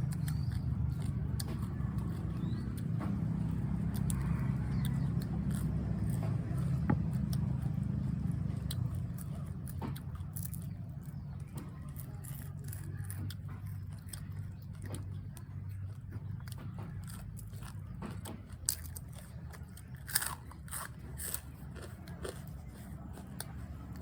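Close-up eating sounds: biting and chewing, with many short crunchy clicks and a cluster of louder bites a little after the midpoint, over a steady low hum.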